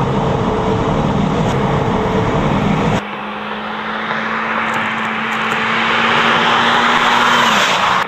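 Audi TT with a Stebro performance exhaust driving: engine and exhaust running with a low drone. After a cut about three seconds in there is one steady droning note, with road and exhaust noise building toward the end.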